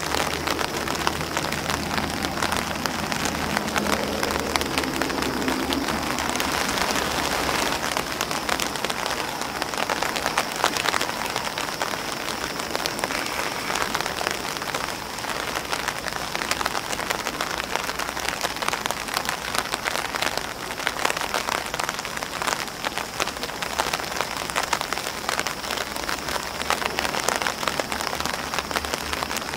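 Steady rain falling on an umbrella and grass leaves: an even hiss of rain filled with many distinct drop hits.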